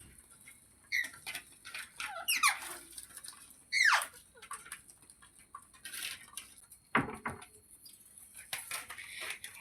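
Parrot calling: a series of short squeaky calls and chirps, with two louder ones about two and four seconds in that slide sharply down in pitch, amid scattered clicks.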